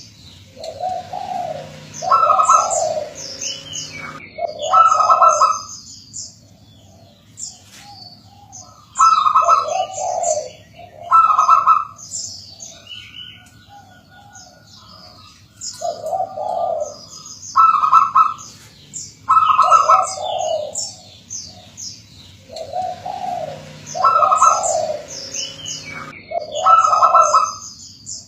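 Zebra dove (perkutut) cooing in repeated phrases of a few rhythmic coos, about two seconds in, around five seconds, from nine to twelve seconds, from sixteen to twenty-one seconds and again near the end. High-pitched chirping of smaller birds runs over it.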